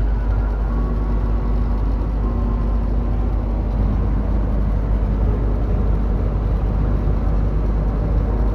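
Steady engine and road noise of a Toyota Tacoma pickup cruising on the highway, heard from inside the cab as an even, deep drone.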